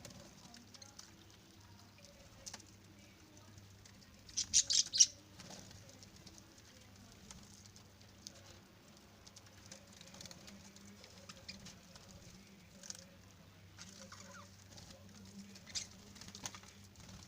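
Budgies bathing: a brief burst of wing flapping and splashing about four seconds in, with scattered small patters and ticks otherwise over a faint steady low hum.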